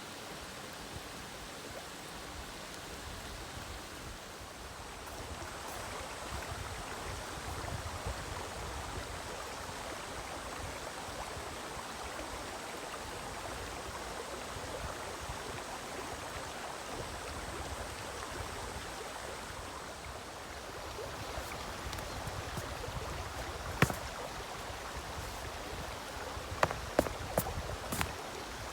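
Mountain stream flowing steadily, with a faint high-pitched whine that stops about two-thirds of the way through and a few sharp clicks near the end.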